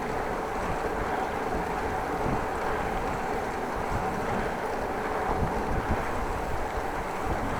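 Wind buffeting the microphone during a bicycle ride: a steady rush with uneven low gusts.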